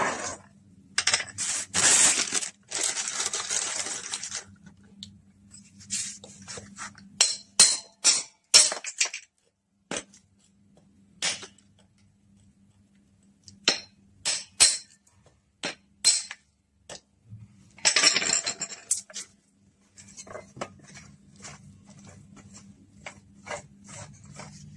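Handling of plumbing tools and pipe fittings: a string of sharp clinks and knocks with a couple of longer scraping rushes, over a faint steady hum.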